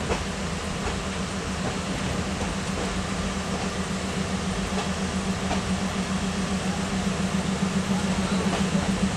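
Passenger train running, heard from on board: a steady rumble with a low hum that grows louder, and a rhythmic pulsing near the end.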